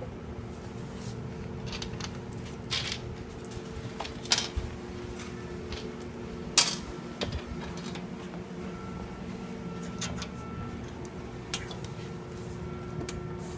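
Scattered small clicks and taps of metal bolts and butterfly (wing) nuts being handled, fitted through holes and hand-tightened, the sharpest about six and a half seconds in, over a steady low hum.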